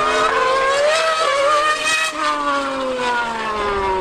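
High-revving racing engine at speed. Its pitch climbs for about two seconds, then falls steadily.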